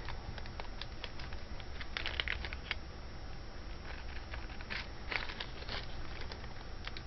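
Small plastic jewelry bags crinkling and pieces of costume jewelry clicking as they are handled, in scattered short clusters of clicks and rustles over a faint steady hum.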